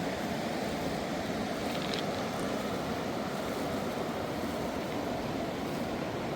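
Steady rushing of a fast mountain river, an even noise with no change in level, with one faint tick about two seconds in.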